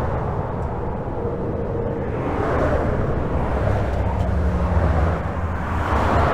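Steady highway traffic heard from beneath a bridge: a continuous rush of tyres and engines, with passing vehicles swelling and fading and a deeper engine hum standing out about four to five seconds in.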